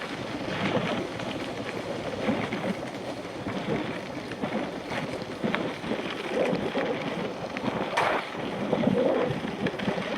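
Mountain bike riding over rough ground: a steady rolling rumble with wind on the camera's microphone, broken by frequent rattles and knocks, and a sharp knock about eight seconds in.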